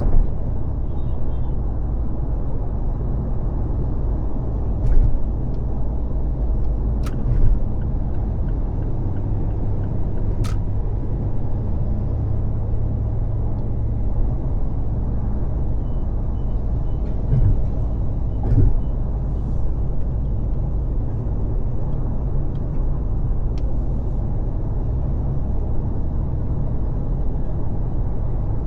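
Car driving at freeway speed: a steady low rumble of tyres and road noise, with a few short clicks scattered through it.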